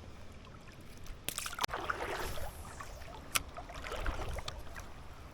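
River water swishing and splashing in two swells, with three sharp clicks between them.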